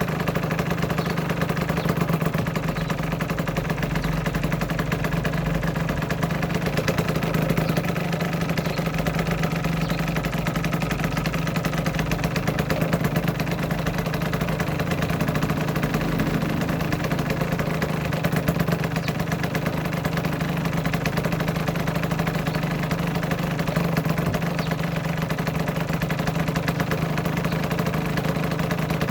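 Aprilia RS125's single-cylinder two-stroke engine idling steadily, with no change in pitch or revs.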